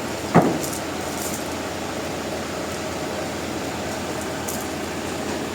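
Steady mechanical running noise with one sharp knock, about a third of a second in, that rings briefly.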